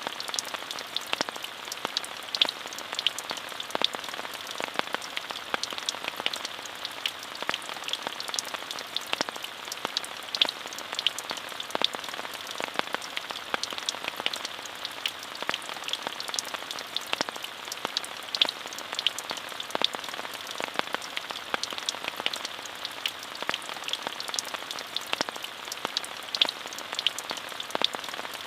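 Steady rain falling: an even hiss dotted with many small, close drop ticks.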